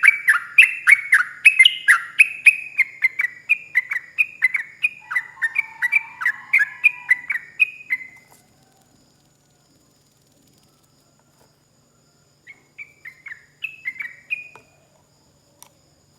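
Yellow-vented bulbul (trucuk) singing a long, rapid string of clear down-slurred chirping notes, about three or four a second, which stops about eight seconds in. A shorter burst of the same notes follows a few seconds later.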